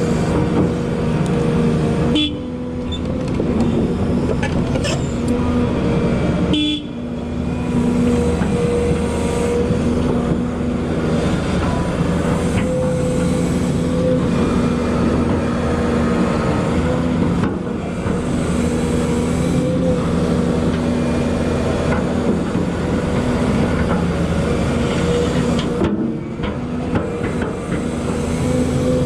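Volvo EC220E excavator's diesel engine and hydraulics running under load while digging, with a steady tonal whine over the engine noise. The sound dips briefly about two seconds in, again about seven seconds in, and near the end.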